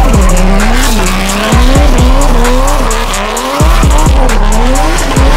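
A BMW E36 drift car's engine revving up and down repeatedly as it slides, with tyres squealing, over hip-hop music with a steady beat.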